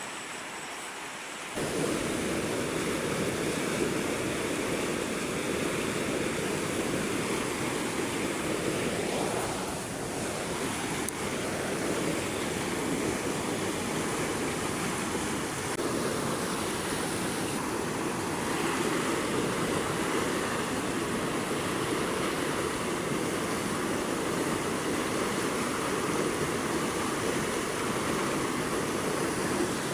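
Steady rushing of river water, an even roar without pauses; it grows louder about a second and a half in.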